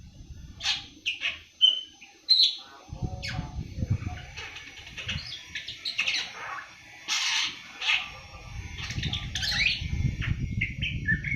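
Young awar-awar songbird twittering softly (ngriwik): scattered short chirps and whistled notes with a few sharp clicks, a seven-month-old bird starting to develop its song. A low rumble runs under parts of it.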